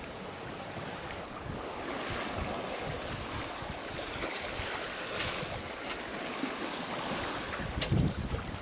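Water rushing and splashing along the hull of a small sailboat under way at sea, with wind buffeting the microphone. The wind rumble comes in stronger near the end.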